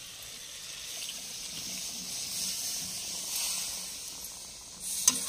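Boiled jackfruit pieces and their turmeric-yellow cooking water poured into hot fried masala in an iron kadhai, setting off a steady hissing sizzle. The sizzle swells and then fades, with a light ladle knock near the end.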